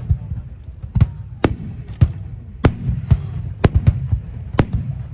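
Aerial fireworks shells bursting in a finale barrage: about a dozen sharp bangs at irregular spacing, roughly two a second, over a continuous low rumble of overlapping booms and echoes.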